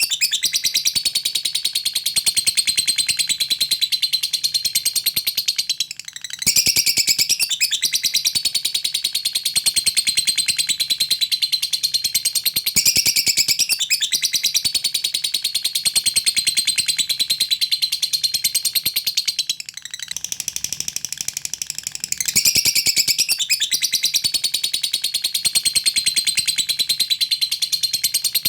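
Lovebird singing a long 'ngekek': a fast, continuous chattering trill of rapid high chirps. It runs in phrases of several seconds, broken by short pauses.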